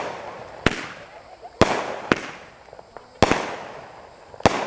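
Fireworks going off: about five sharp bangs at irregular gaps of half a second to a second, each trailing off in a hissing echo.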